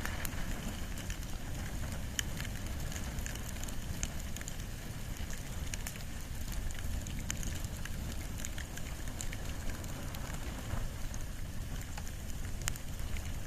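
Bonfire of wood and bamboo burning, with scattered sharp crackles and pops over a steady low rumble.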